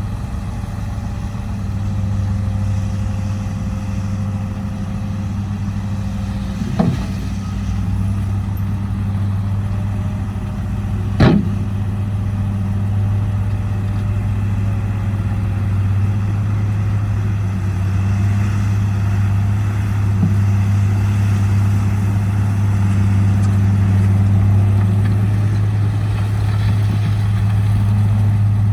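Heavy dump truck's diesel engine running steadily, growing a little louder in the second half, with two sharp knocks, one about seven seconds in and another about four seconds later.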